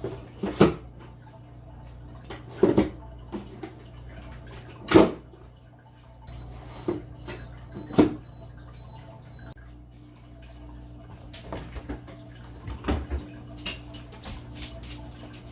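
Knocks and clunks of jars and containers being set down and moved about in a refrigerator, over a steady low hum. A faint high tone pulses for a few seconds in the middle.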